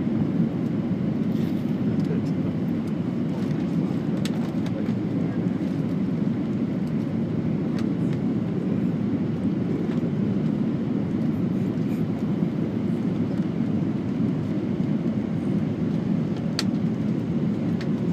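Steady cabin noise inside an Airbus A320 airliner: the engines and airflow make an even low noise. A few faint clicks sound over it.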